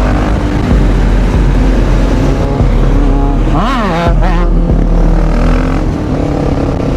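Motorcycle engine running under way, with a quick rev up and back down about halfway through.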